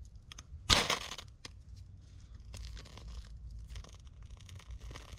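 Dry tinder being torn and crumbled by hand: one loud tearing rip about a second in, then small crackles and rustles.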